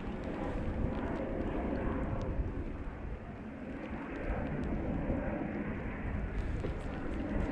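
Wind buffeting the microphone: a steady, noisy rush, heaviest in the low end, with a few faint ticks.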